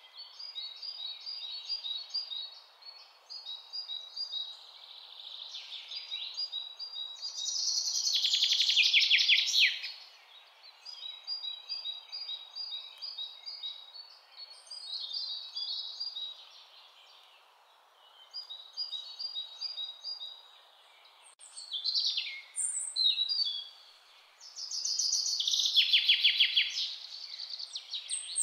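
Birdsong: birds chirping and singing in short repeated phrases over a faint steady hiss, with a louder rapid trill about eight seconds in and again about twenty-five seconds in.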